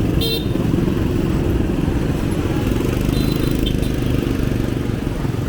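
Motor scooter engine running close by with a rapid low, pulsing rumble, amid street traffic noise. A brief high-pitched ring sounds just after the start.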